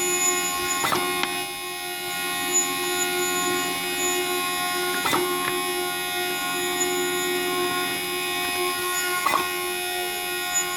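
Zebra printer running with a steady, sharp squeak that sounds like a horn tone, and a click about every four seconds. The squeak is the fault the printer is showing.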